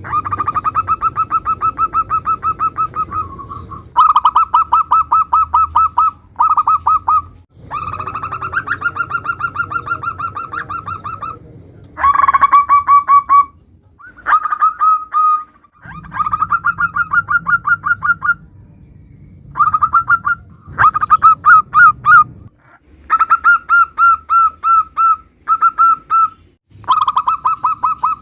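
Zebra doves (perkutut) cooing in bouts of rapid, repeated staccato notes, each bout one to four seconds long, with short gaps between. A low hum sits under some bouts and cuts in and out abruptly.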